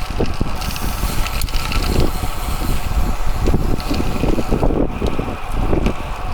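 Wind buffeting the microphone of a camera carried on a moving bicycle, a loud, uneven rumble without a break.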